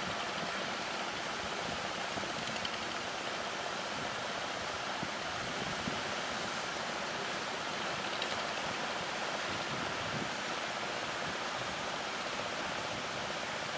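Steady rush of sea surf and strong wind, an even noise with no single wave crash standing out.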